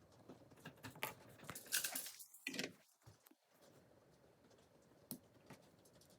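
LEGO pieces and packaging being handled: scattered light plastic clicks and rattles, with a louder stretch of rustling and clicking between about one and three seconds in.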